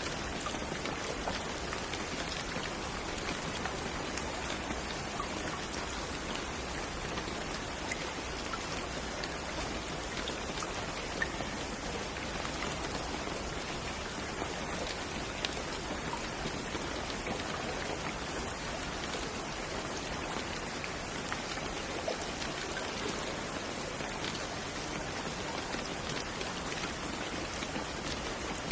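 Steady rain falling, with many small individual drops pattering on a surface.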